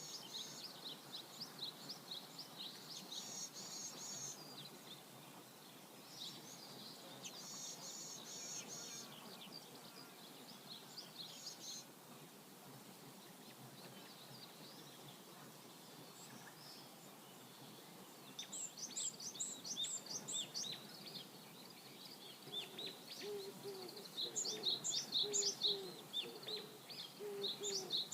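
Small songbirds chirping in quick clusters of high notes every few seconds over a faint steady rush of flowing river water. Near the end a lower call repeats in short notes beneath the chirps.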